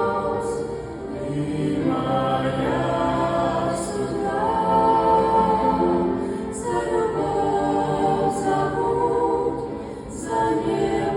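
Choir singing a slow Christian song in long held notes, several voices together.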